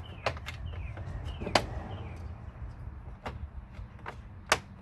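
Scattered sharp clicks and clinks of hand tools being handled while he gets ready to reconnect the truck's battery, the loudest about a second and a half in and near the end, over a low steady rumble.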